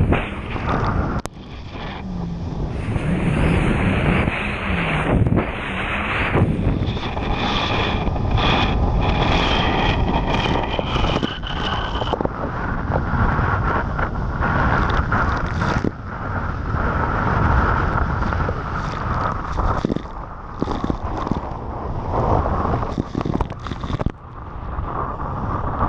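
Jet ski running under way, its engine's pitched drone half buried under heavy wind buffeting the microphone.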